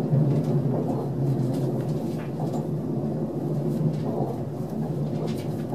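Steady low rumble of an ÖBB Railjet train running along the track, heard inside a passenger coach, with faint scattered ticks over it.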